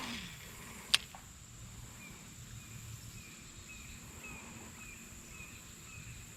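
Quiet outdoor creekside background: a steady high insect drone, with a faint short chirp repeated about twice a second from about two seconds in. A sharp click at the start and a louder one about a second in.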